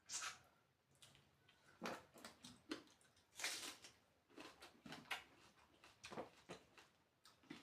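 Close-up chewing and wet mouth sounds of someone eating, in short irregular bursts about every half second to second.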